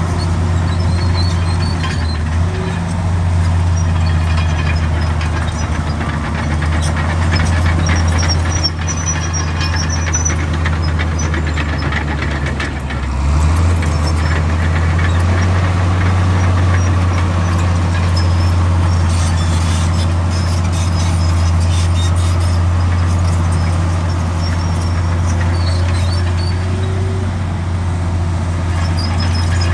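Heavy diesel engine of a Komatsu D65 bulldozer running steadily under load, with a deeper surge in engine note about halfway through and occasional short high squeaks.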